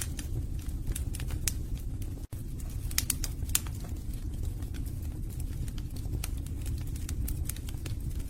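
Wood logs burning in a fireplace: a steady low rumble of the fire with frequent sharp crackles and pops, a few louder pops about three seconds in. The sound cuts out for an instant a little after two seconds.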